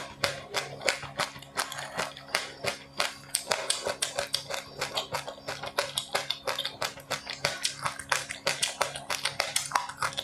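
Close-up crunching and chewing of crisp seed and puffed rice snacks: rapid sharp crackles, several a second, over a faint steady low hum.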